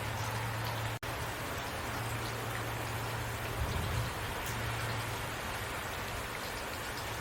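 Heavy rain falling steadily, an even hiss of many drops, over a steady low hum. The sound cuts out for an instant about a second in.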